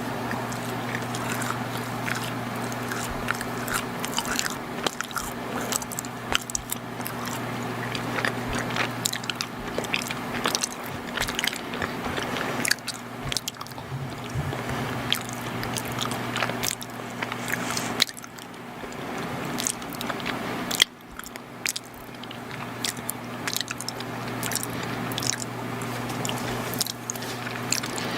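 Close-miked chewing and biting of soft, chewy chocolate baked goods: moist smacks and small crunches in an uneven stream, with brief pauses about two-thirds of the way in. A steady low electrical hum runs underneath.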